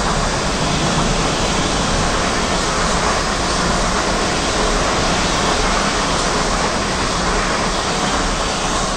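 A train passing at speed: a loud, steady rush of wheels on rails and moving air, with no engine note.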